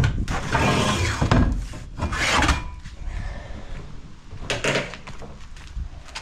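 Hand work on parts: three rough scraping and rubbing bursts, the longest over the first second and a half, with scattered knocks in between.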